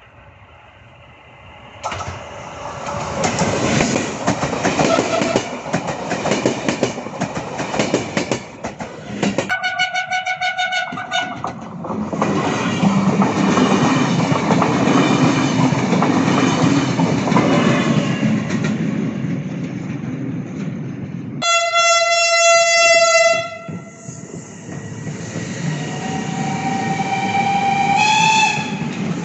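A train passing, sounding its horn twice: one blast of about two seconds about ten seconds in, and another about twenty-two seconds in. A rising whine follows near the end.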